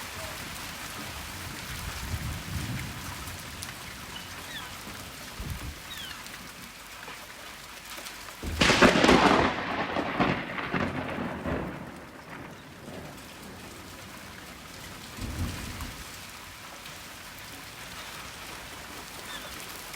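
Steady heavy rain with thunder. There are low rumbles in the first few seconds, then a sudden close thunderclap about eight seconds in that cracks sharply and rolls for about four seconds. Another low rumble comes near the end.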